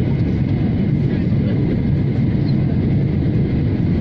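Boeing 737 on its landing approach in gusty wind: a loud, steady low roar of jet engines and rushing air, with faint steady higher tones over it.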